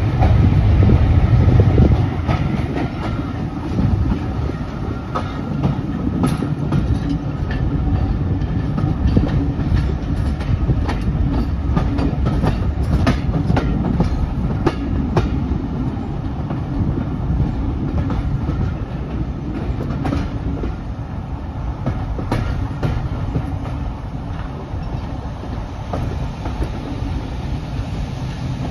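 Passenger train coach running along the track, heard from its window: a steady rumble with wheels clicking over the rail joints. It is louder for the first couple of seconds while the coach passes under a bridge.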